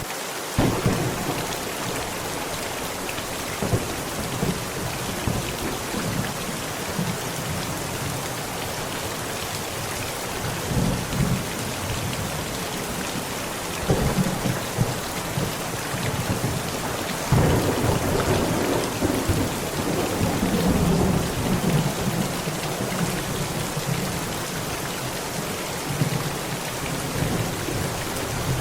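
Heavy rain falling steadily on a tent, with thunder rolling in: short rumbles about 10 and 14 seconds in, then a longer, louder roll from about 17 seconds in that lasts several seconds.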